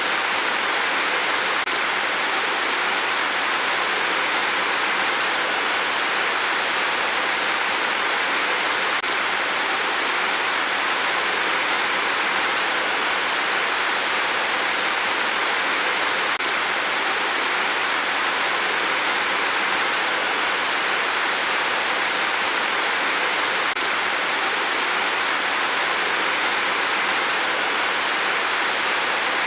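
Steady rain, an even hiss with no separate drops or gusts standing out.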